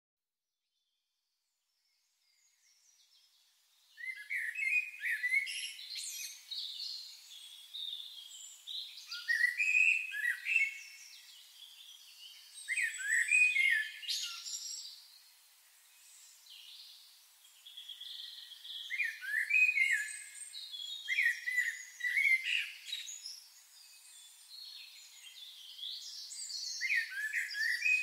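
Songbirds singing and chirping in short, repeated phrases that start about four seconds in, with several calls overlapping.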